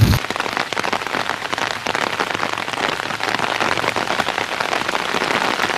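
Heavy rain falling steadily, a dense patter of many drops on surfaces. Just after the start it replaces an abrupt cut from a louder, deeper rumble.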